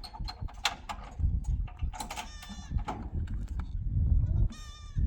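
Goats bleating twice, wavering calls about two seconds in and again near the end, with a low rumble and scattered clicks between them.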